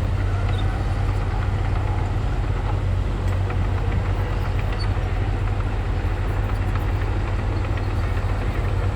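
Heavy diesel engine of a Komatsu bulldozer running steadily, a constant low drone with a noisy rumble over it.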